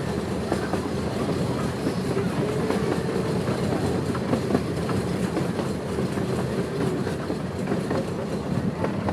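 Small park steam train's cars rolling along the track: a steady rumble with a rapid clickety-clack of wheels over the rails and a faint wavering squeal underneath.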